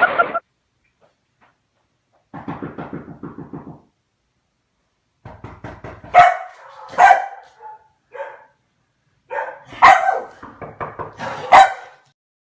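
A dog barking: a rapid rattling stretch about two seconds in, then a run of loud barks from about six seconds on.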